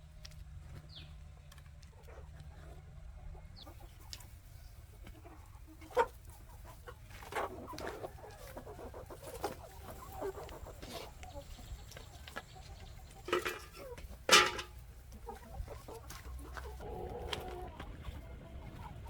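Chickens clucking intermittently, with a few sharp knocks or clicks, the loudest about 14 seconds in.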